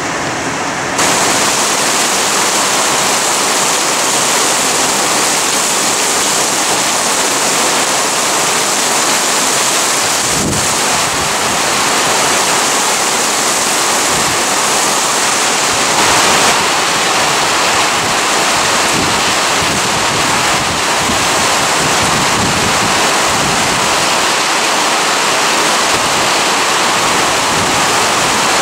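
Heavy rain pouring down in a steady, loud rush. From about ten seconds in, wind buffets the microphone in low rumbles.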